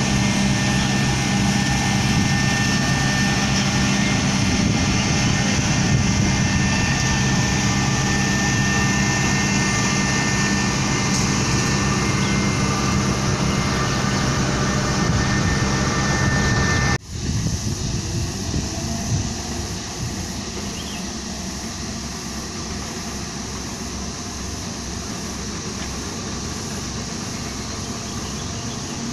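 Heavy road-construction machinery running with a steady engine drone. About two-thirds of the way through it cuts off abruptly, and a quieter machine engine continues.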